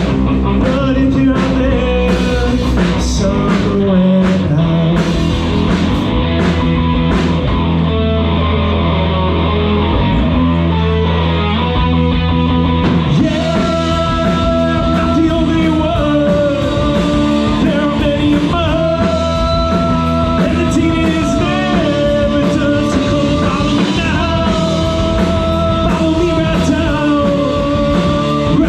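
A live rock band playing loudly, with singing over guitars, bass and drums. The sound gets fuller and brighter about halfway through, with crashing cymbals and a held melody line.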